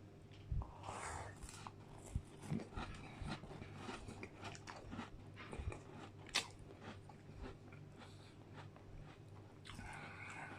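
Close-up crunching and chewing of a digestive biscuit dipped in soft ice cream: a run of sharp, irregular crunches with wet chewing between them.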